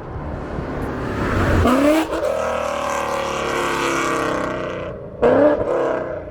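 Ford Coyote 5.0 V8 with Kooks headers accelerating hard and loud: the engine note climbs, breaks briefly at a gear shift about two seconds in, then holds high. About five seconds in there is another quick rising rev.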